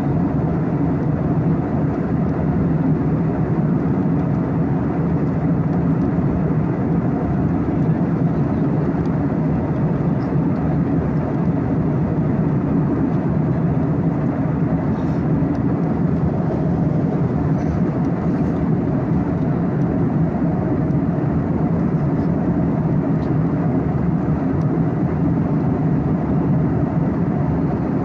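Steady, unchanging drone of a moving vehicle: a low engine hum mixed with rushing noise.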